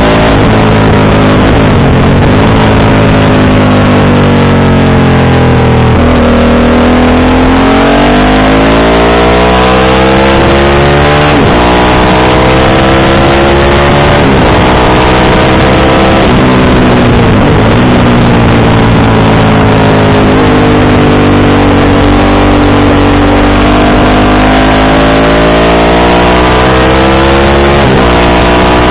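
Motorcycle engine with a JC aftermarket exhaust, running hard on the road. Its pitch climbs and then drops abruptly several times as it is shifted or eased off, over a constant loud rush of wind and road noise.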